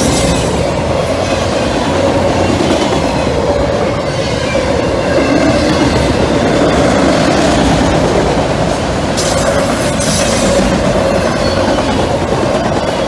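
Freight train of auto-rack cars rolling past close by: a loud, steady rumble of steel wheels on rail with clacking over the rail joints.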